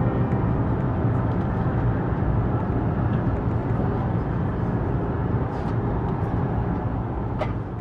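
Deutsche Bahn passenger train running at speed, heard from inside the coach: a steady, even rumble of wheels on rail, with faint scattered ticks and one short sharp click near the end.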